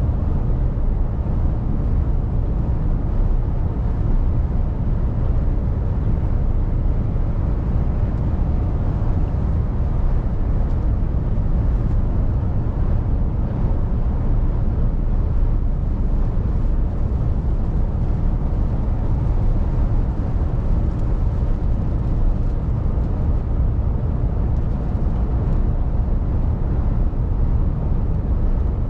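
Mercedes-Benz Actros truck on the move: a steady low rumble of diesel engine and road noise.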